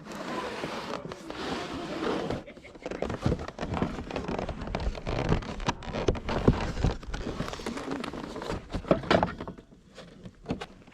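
Close rustling with many scattered clicks and light knocks, typical of items being handled and moved near the microphone.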